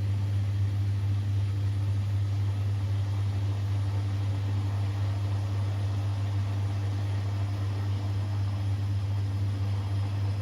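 Siemens Extraklasse XLS 140 A washing machine running during its boilwash cycle, giving a steady low hum with a light hiss and no change.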